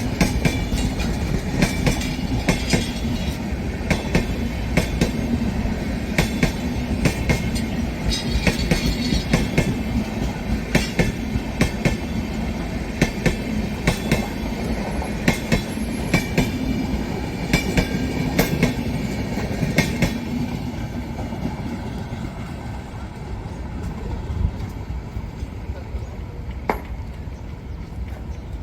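Rajdhani Express passenger train running on the track, its wheels clacking over rail joints in quick irregular clicks over a steady rumble. The sound fades after about twenty seconds as the train draws away.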